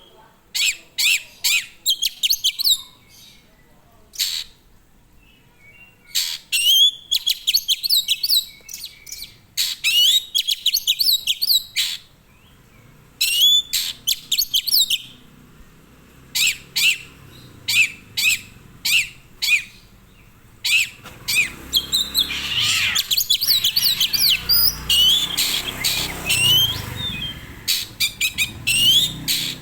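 A caged songbird calling in bunches of rapid, high, sweeping chirps separated by short pauses. Between about three-quarters of the way through and near the end, a rough rushing noise sits under the chirping.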